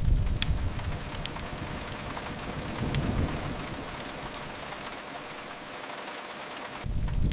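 Steady rain with low rumbles of thunder: one fading over the first few seconds and another starting near the end. Occasional sharp crackles from a wood fire sound through the rain.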